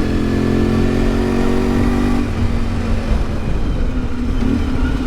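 1992 Yamaha XTZ 750 Super Ténéré's parallel-twin engine running steadily on the move; about two seconds in, its note drops lower and then holds.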